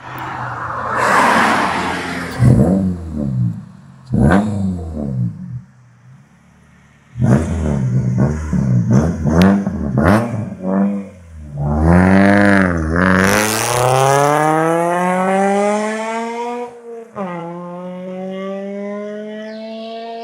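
Honda Civic Si engine breathing through a stainless 4x1 header and open cat-back exhaust. It is revved in a series of quick blips, then climbs in one long rising rev that drops sharply about 17 seconds in and starts climbing again.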